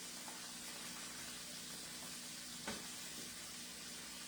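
Battered chicken pieces frying in hot oil in a pan, a steady sizzle, with a single light click about two and a half seconds in.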